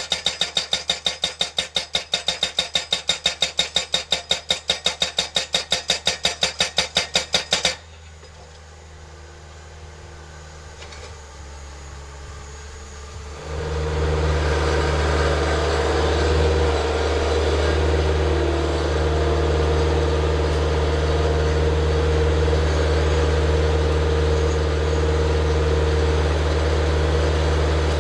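Breaker-style skid-steer post driver hammering a post with rapid, evenly spaced blows that stop suddenly about eight seconds in. The skid steer's diesel engine is left running low, then throttles up to a louder steady run about 13 seconds in.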